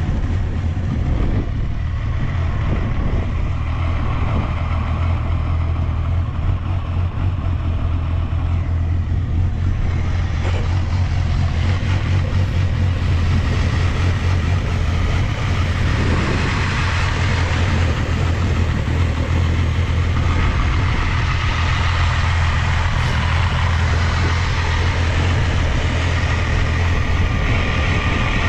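Honda Jade 250's inline four-cylinder engine idling steadily just after starting. It runs evenly with no abnormal noise, which the seller takes as a sign the engine is in top condition.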